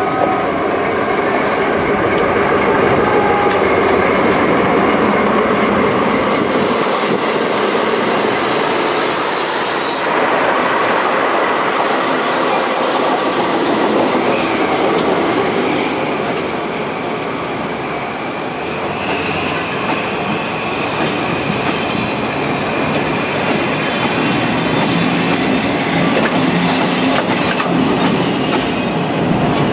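JR Freight DD51 diesel-hydraulic locomotive passing close by at slow speed, followed by a long string of empty Taki cement tank wagons rolling past. The wheels clack over the rail joints and squeal with a thin, high, steady tone.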